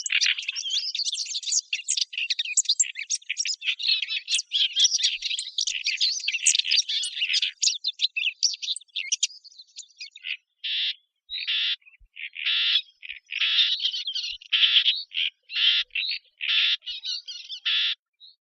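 Fig bird (al-dukhul), a small warbler, singing in a recording played as a hunting lure. For about nine seconds it is a fast, scratchy, unbroken warble. Then comes a series of short, separate harsh notes, about one every half second.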